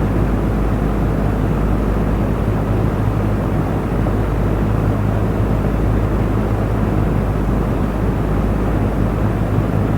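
Electric fan running steadily: an even rush of air from the blades over a low, steady motor hum.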